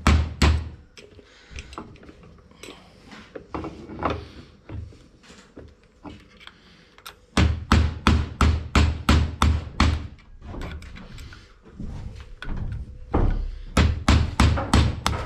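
Hammer blows knocking out a plug under the gear-lever pin of a tractor's gear-shift cover. A few scattered knocks come first, then two runs of quick, hard strikes at about three a second, with a short pause between them.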